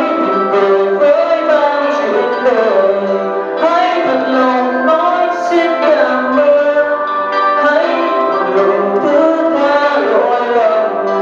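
A singer performing a song with instrumental accompaniment, the voice gliding between held notes.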